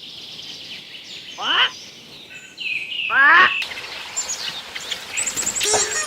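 Animal calls: two loud, harsh calls that each drop steeply in pitch, about two seconds apart, followed by quick high chirps. A repeating music pattern starts near the end.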